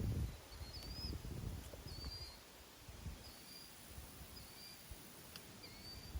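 A bird repeating a short, high, wavering chirp about once a second, faint against a steady high hiss. Low rustling in the first couple of seconds.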